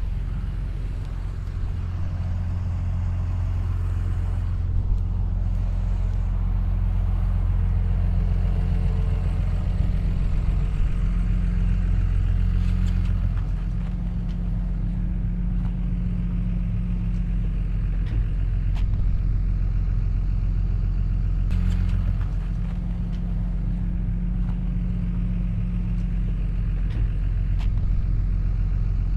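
Diesel engine of heavy construction machinery running steadily, with its pitch and load changing a little a few times. Now and then there are faint short clanks.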